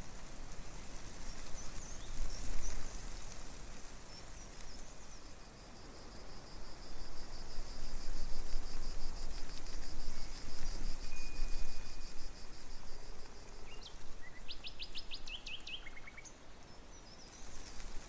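Outdoor ambience: a steady rushing noise with a low rumble, an insect's rapid pulsing trill for several seconds in the middle, and a bird's quick run of short chirps near the end.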